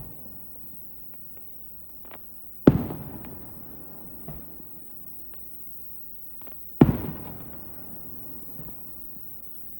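Aerial fireworks shells bursting: two loud booms about four seconds apart, each trailing off in a long rolling echo, with scattered small crackles and pops in between.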